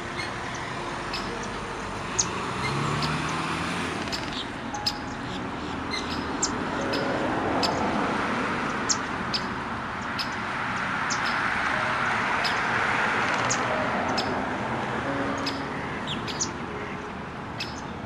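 Small birds chirping again and again, short sharp calls, over a steady rushing background that swells and fades twice.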